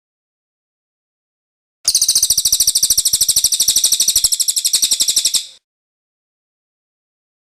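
A cililin bird's rolling trill: a rapid, even run of high-pitched notes, about ten a second. It starts about two seconds in and breaks off after about three and a half seconds.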